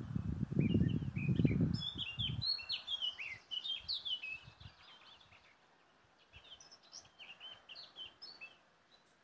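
Small birds chirping and singing in quick, high, overlapping phrases, busiest in the first half and thinning out toward the end. A low buffeting rumble of wind on the microphone is the loudest sound for the first two seconds or so, then stops.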